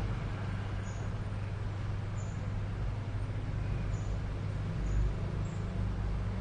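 A steady low mechanical hum, like a motor running, with faint short high-pitched chirps about once a second.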